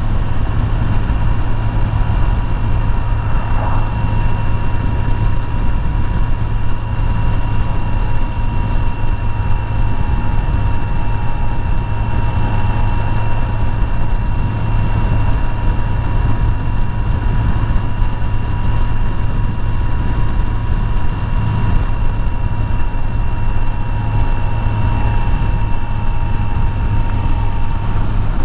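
Kawasaki Z900 inline-four engine running at a steady cruise under way, the engine note holding even throughout with road and wind noise.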